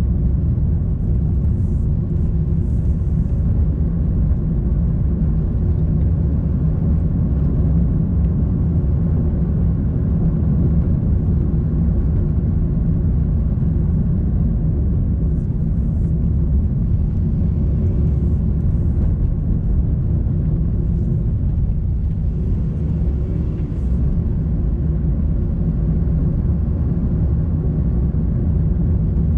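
A car driving at a steady pace: a continuous low rumble of engine and road noise.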